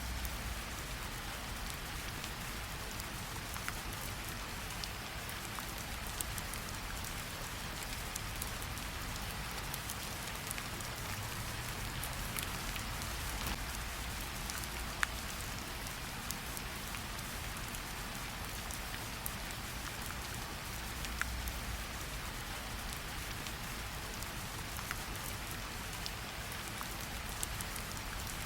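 Gentle rain falling on tree leaves: a steady hiss of rain with scattered single drops ticking on the leaves.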